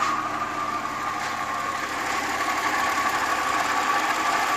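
2017 Audi Q7's supercharged engine running, with a steady high-pitched whine over the engine's hum: the sound of a bad water pump.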